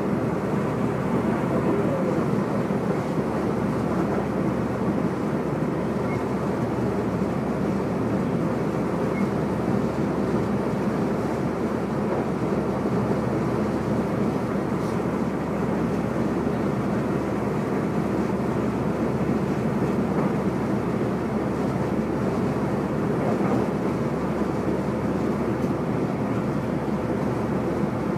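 Steady running noise of a Siemens Desiro electric multiple unit travelling at speed, heard inside the passenger cabin, with a faint steady tone running through it.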